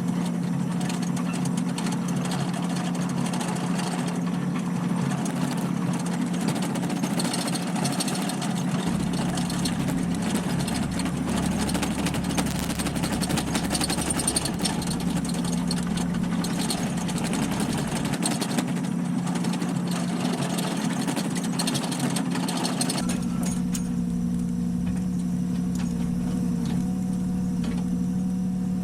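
An engine idling steadily, with wind noise rushing over it through much of the middle.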